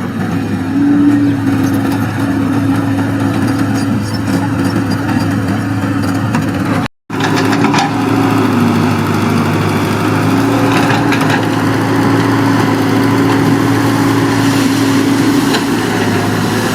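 Excavator's diesel engine running steadily, its pitch wavering slightly as it works. The sound cuts out completely for a moment about seven seconds in.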